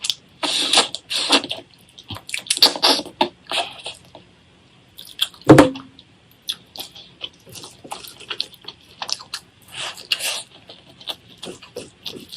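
Close-up wet eating sounds: irregular chewing, smacking and slurping clicks, with one sharp knock about five and a half seconds in.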